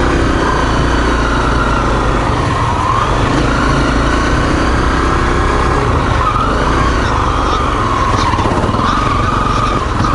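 Single-cylinder four-stroke dual-sport motorcycle engine running on a trail, its revs rising and falling as the rider works the throttle.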